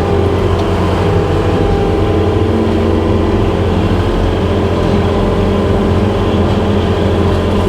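Skid steer's diesel engine running steadily at constant speed.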